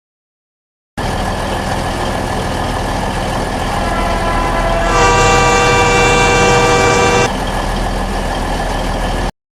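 Twin-engine diesel-hydraulic locomotive running with a steady drone, its horn sounding one long blast of about two seconds midway. The sound cuts in about a second in and cuts off abruptly near the end.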